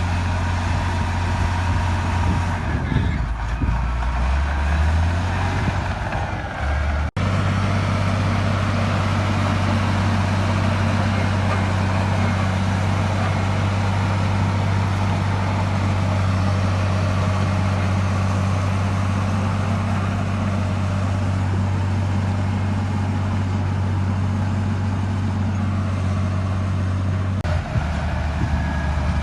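Heavy diesel engine of earthmoving machinery running under load with a steady low drone. Its pitch dips and recovers a few seconds in, the sound drops out for an instant near a quarter of the way through, and the pitch shifts slightly near the end.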